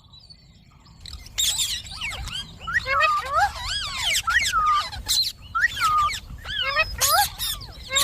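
Indian ringneck parakeet chattering in a rapid string of whistled, up-and-down gliding calls, starting about a second in and running on without a break.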